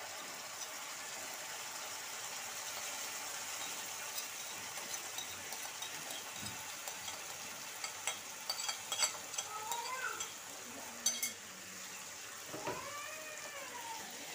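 Yogurt-based masala paste hitting hot oil and fried onions in a pan, sizzling steadily. In the second half a spoon scrapes and clicks against the bowl and pan.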